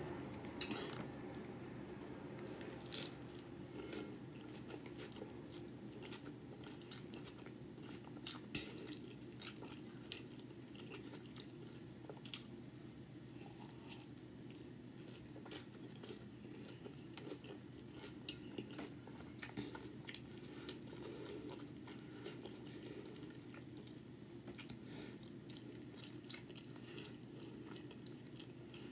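Close-up eating: biting into and chewing taco boats, heard as scattered wet clicks and small crunches of the mouth, over a steady low hum.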